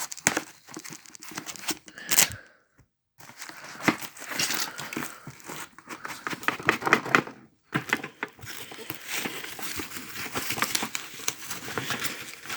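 Parcel wrapping being pulled off by hand: irregular crinkling, crackling and tearing of packaging and sticky tape, broken by two short silences about two and a half and seven and a half seconds in.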